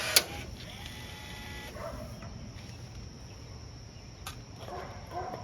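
Power rivet tool whirring briefly and setting a pop rivet with one sharp snap about a quarter second in, fastening an aluminium body panel; then low background noise.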